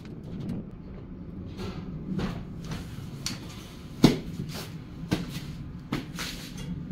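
A few irregular sharp clicks and knocks, the loudest about four seconds in, over a low steady hum.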